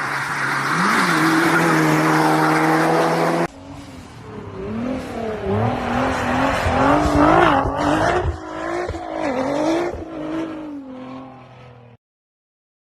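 A car engine running at steady revs, its note rising briefly once. After a sudden cut, a vehicle's pitched whine wavers rapidly up and down, with tyre squeal, as in a skid, and then stops abruptly.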